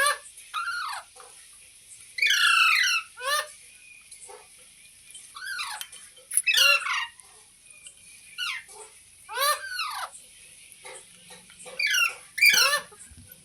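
Green ringneck parakeet giving a series of harsh screeching calls, each sliding down in pitch, repeating every second or two, with the loudest in pairs, over a faint steady hiss.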